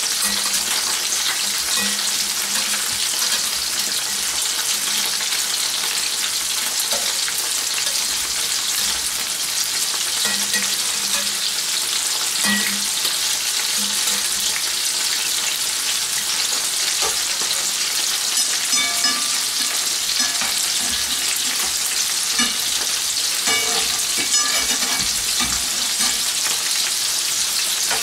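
Shell-on king prawns sizzling in hot olive oil with garlic in two frying pans, a steady hiss. Light clinks and scrapes of a fork turning them come more often in the second half.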